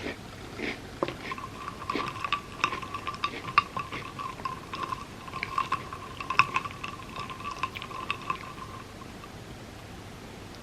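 Close-miked eating of a sticky peanut butter dessert: wet mouth clicks and smacks of chewing, with a steady high tone held through the middle.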